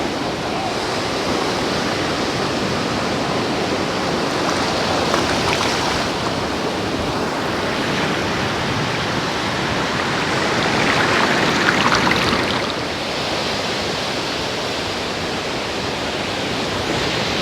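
Ocean waves breaking and washing up the beach at high tide: a steady rush of surf that swells briefly about two-thirds of the way through.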